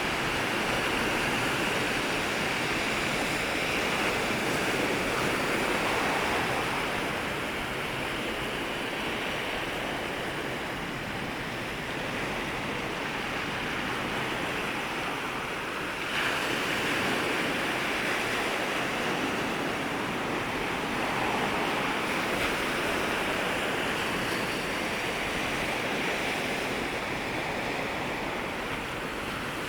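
Waves breaking and washing at the shoreline: a continuous rush of surf that swells and eases, with a new wave surging in about halfway through.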